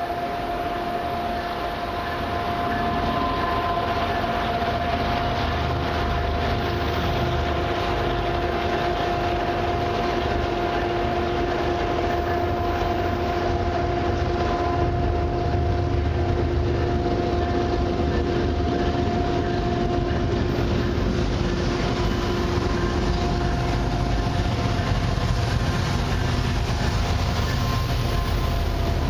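Approaching CN freight train: the low rumble of its diesel locomotives and wheels on the rails builds as the lead units reach the platform. Two steady high-pitched tones ring over the rumble for most of the time and stop about two-thirds of the way through.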